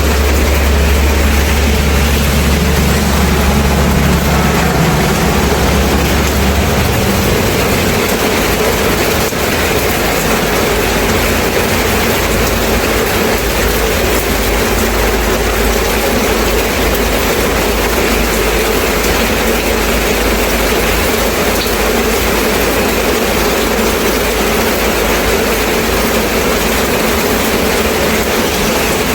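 Steady rain falling, an even hiss. Under it, a deep low rumble like a heavy engine runs for the first seven seconds or so, then drops away suddenly.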